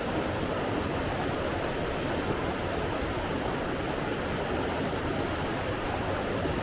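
Steady rush of flowing water, an even hiss with no distinct splashes or breaks.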